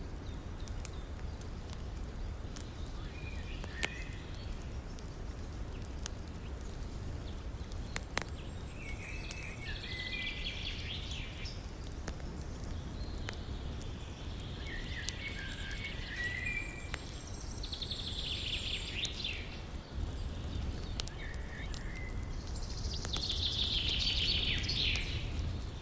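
Campfire crackling with a few sharp pops over a steady rushing river, while a songbird sings short phrases about six times, loudest near the end.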